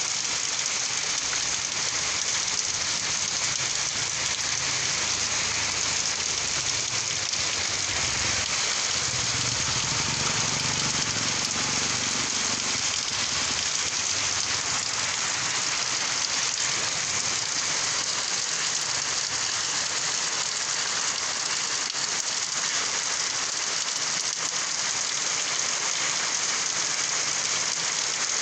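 Steady, heavy rain falling, an even dense hiss of drops on surfaces. A faint low rumble comes and goes between about six and thirteen seconds in.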